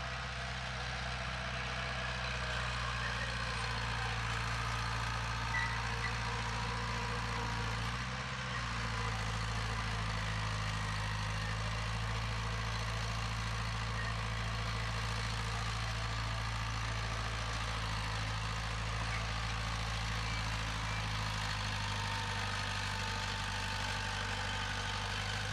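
Heavy diesel engine of earthmoving machinery running steadily at an even note, with a brief dip about eight seconds in and a slight change of note near the end.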